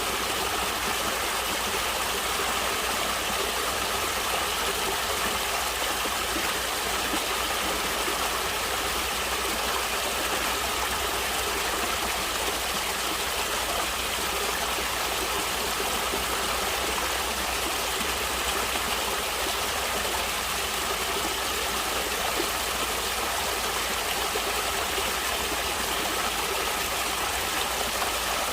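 Stream water flowing and splashing steadily, an even rushing with no breaks.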